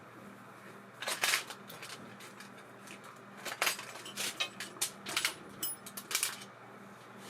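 Light metallic clicks and clinks of small reel parts and tools being handled, in a short cluster about a second in and a longer run from about three and a half to six seconds in.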